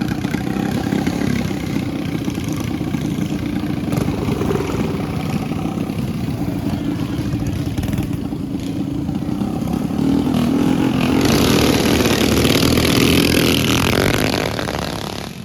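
Small mini bike engines running and revving, growing louder about ten seconds in and dropping away near the end.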